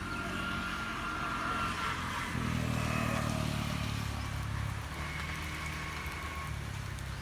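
A motor vehicle's engine running, getting louder about two seconds in and easing off just before five seconds, with faint steady high tones above it.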